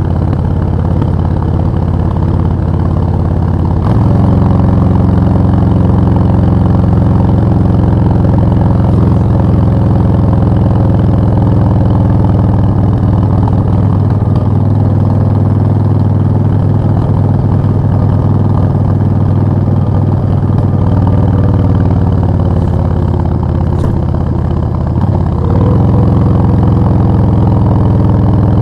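Suzuki VS1400 Intruder's 1360 cc V-twin engine running steadily, its note getting louder about four seconds in and again near the end.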